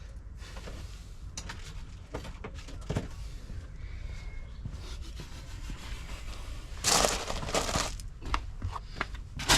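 Plastic trim clips on a car's undertray being prised out with a clip removal tool: scattered small clicks and creaks, with a louder crackling stretch of plastic about seven seconds in.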